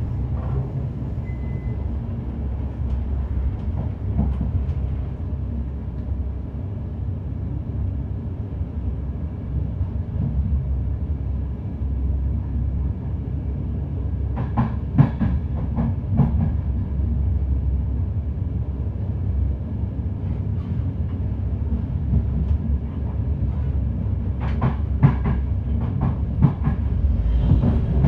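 Passenger train running on rails with a steady low rumble, and two short runs of sharp wheel clicks over rail joints, one about halfway through and one near the end.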